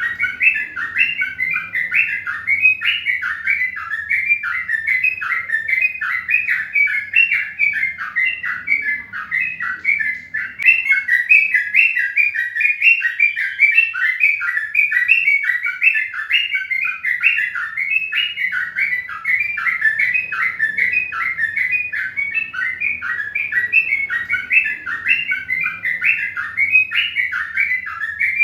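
Birds chirping continuously, a rapid run of short, high chirps many times a second without a break.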